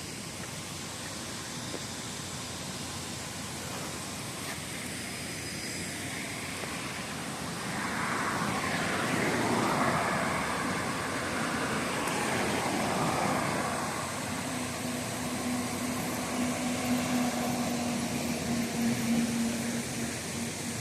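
Road traffic: a vehicle passes by, its noise swelling and then fading with a bending pitch, over a steady background hiss. A steady low hum sets in after the vehicle has passed.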